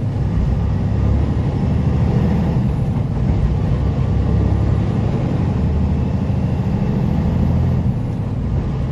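Diesel semi-truck engine running under load with road noise, heard inside the cab: a steady low rumble.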